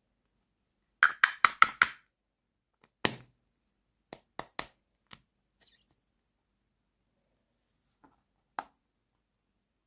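Small hard plastic toy pieces clicking and knocking as they are handled and set down. A quick run of five clicks comes about a second in, then a heavier knock with a low thump, three more clicks, and a single tap near the end.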